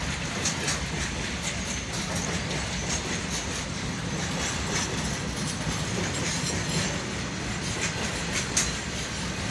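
Freight train's flat wagons rolling past, steel wheels clacking irregularly over the rail joints over a steady rumble.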